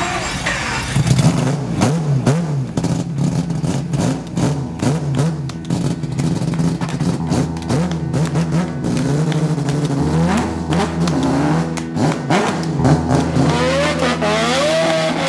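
Naturally aspirated rotary engine of a drift car being revved repeatedly in the pits, rising and falling in pitch with sharp crackles throughout. The engine is fitted with extra mufflers to meet a noise limit.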